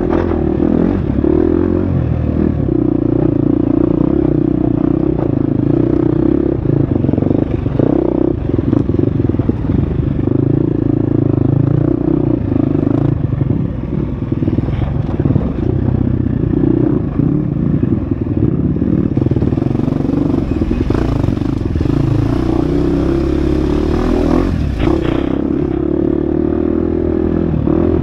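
Husqvarna FX 350 dirt bike's four-stroke single-cylinder engine running under load on a trail, its revs rising and falling with the throttle, with clatter from the bike over rough ground.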